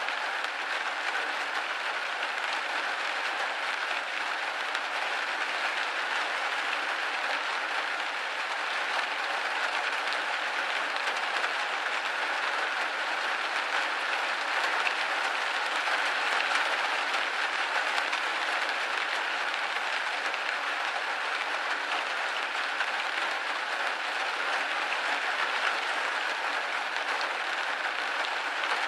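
Steady rain pattering on a window pane, an even hiss of many small drop impacts.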